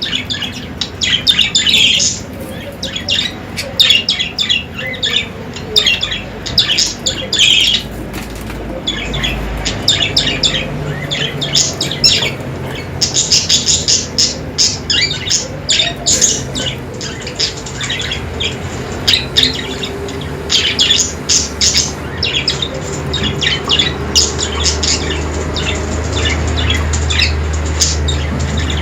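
Budgerigars chirping and chattering in rapid, overlapping high calls with no let-up. A low steady hum rises underneath near the end.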